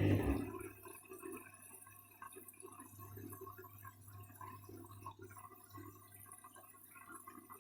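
A Candy washing machine's loud steady hum stops about half a second in. After it, only faint water trickling and dripping is heard in the drum during the rinse.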